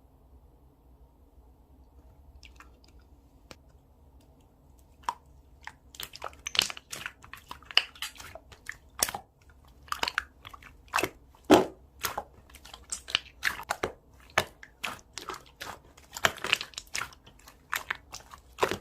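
Slime being pressed and worked by hand, giving a quick irregular run of sharp crackles and pops that starts about five seconds in.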